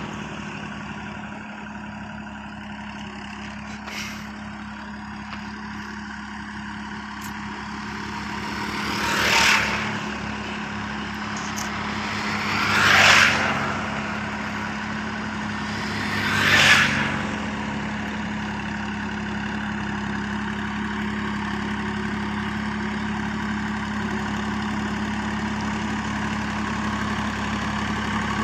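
Universal 533 tractor's engine running steadily while working a flooded paddy field. Three short swells of louder rushing noise rise and fall in the middle stretch.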